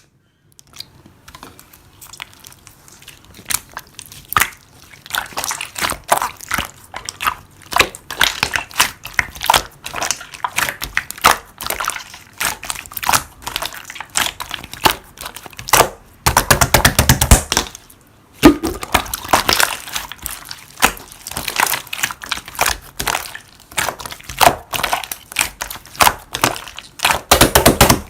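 Slime being squished and kneaded by hand, with many small wet pops and crackles. About two-thirds of the way through there is a denser burst of rapid crackling that lasts a couple of seconds.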